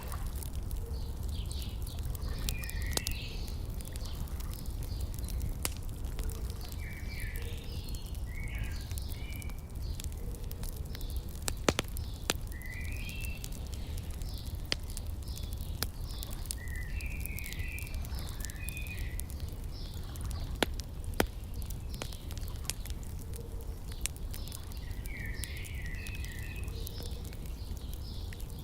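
Wood fire crackling with scattered sharp pops, a few louder ones about halfway through, over a steady low rumble. Small birds chirp in short phrases every few seconds.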